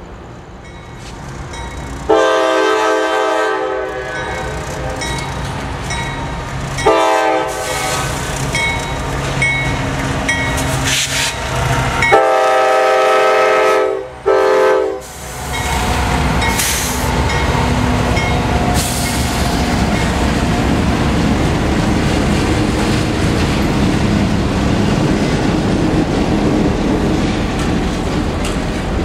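A diesel locomotive horn sounds three chords: a long blast about two seconds in, a short one near seven seconds, and a long one around twelve seconds with a brief break near its end. The CSX locomotives (a GE CW44AC leading an EMD SD50-2) then pass close by with a loud rumble, followed by the circus train's passenger cars rolling past with wheels clacking over rail joints.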